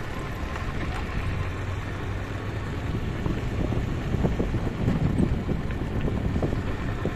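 Steady low engine hum of a vehicle, with wind buffeting the microphone in gusts about halfway through.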